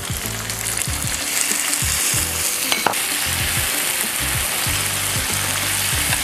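Diced tomatoes sizzling in hot oil in a nonstick frying pan as they are poured in on top of softened garlic and onion and stirred with a silicone spatula; the sizzle grows stronger after the first second. A single sharp tap a little under three seconds in.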